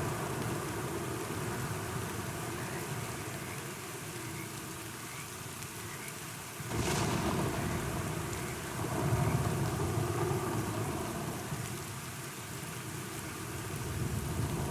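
Steady rain falling, with a sudden crack of thunder about halfway through that rolls on into a low rumble for a few seconds.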